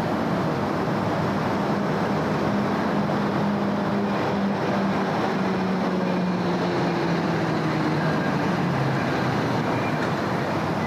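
City road traffic: a steady wash of passing cars and tyre noise, with the hum of a vehicle's engine holding through the first eight or nine seconds before fading.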